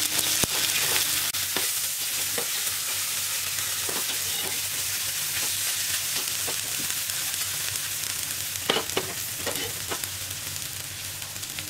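Arbi (colocasia) patties sizzling steadily in shallow oil on a tawa. Several light scrapes and taps of a steel spatula sound as the patties are turned over.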